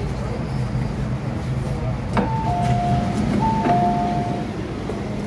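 MTR M-Train running with a steady hum, and about two seconds in an onboard two-note chime, high then low, sounds twice in a row.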